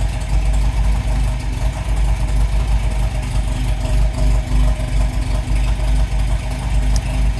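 1952 MG TD's 1250 cc XPAG four-cylinder engine idling steadily after a cold start, holding its idle with the choke just pushed in.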